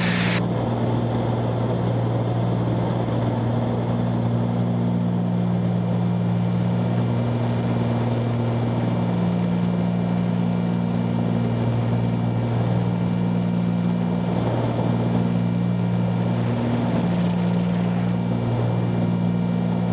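Steady drone of a 1974 Cessna 310Q's two piston engines and propellers in the climb, with a low hum that swells and fades every few seconds.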